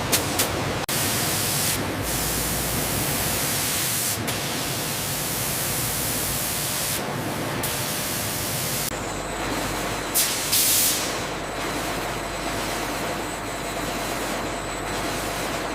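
Steady hissing industrial machine noise that changes character abruptly every few seconds, as if cut between different spots on a processing line.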